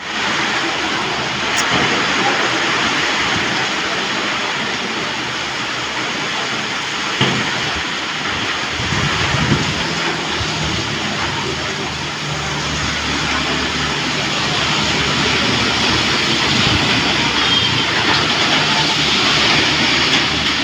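Heavy rain falling in strong wind: a steady, loud hiss of rainfall with an uneven low rumble of wind underneath.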